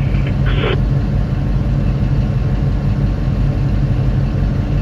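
Heavy diesel engine of a Hitachi 2500 mining excavator running steadily, a deep even drone. A short, higher-pitched burst is heard about half a second in.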